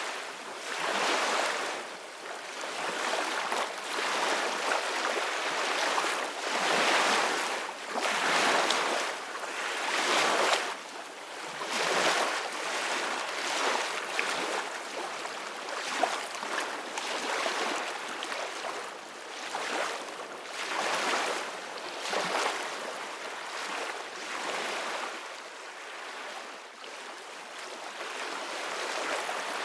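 Ocean waves washing in surge after surge, each swell of hiss rising and easing every second or two, a little softer toward the end.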